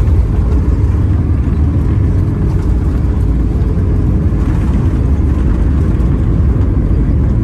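Steady low rumble of a vehicle running under way, with no change in pitch or level.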